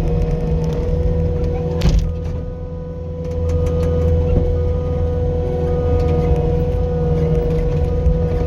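Skid steer loader's engine running steadily with a constant whine over a low rumble. There is a sharp click about two seconds in, and the engine sound drops briefly, then picks back up.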